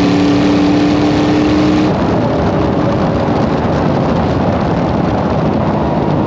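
LS V8 engine of a drag altered running hard, its note climbing slightly, then breaking off abruptly about two seconds in, leaving a rough rushing noise with a low engine note underneath.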